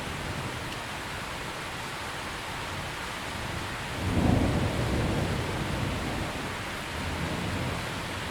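Steady rain falling, with a roll of thunder about halfway through: a low rumble that swells suddenly, then dies away over a few seconds, with a smaller second swell near the end.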